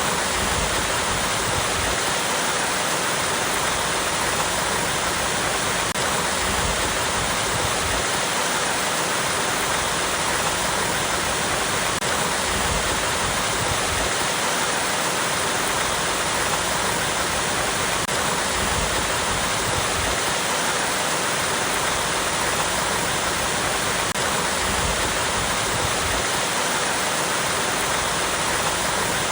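Small waterfall cascading over rocks, a steady, even rush of falling and splashing water.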